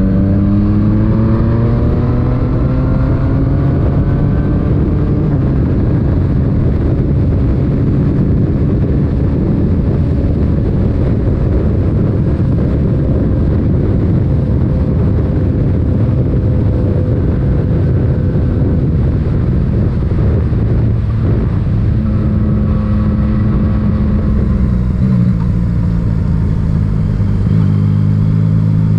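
Yamaha MT-09 three-cylinder engine through an Akrapovic titanium exhaust, pulling up through the revs in the first few seconds, then running at a steady speed under wind rush. Near the end the engine note drops lower as the bike slows or changes gear.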